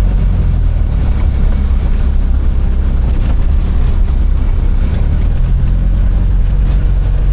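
Steady low rumble of a Mitsubishi Delica camper van on the move: engine and road noise.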